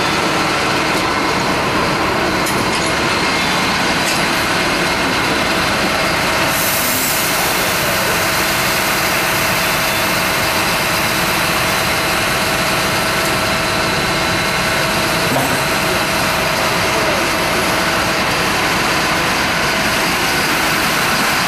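Truck engine running steadily: a loud, even mechanical drone with faint steady tones in it.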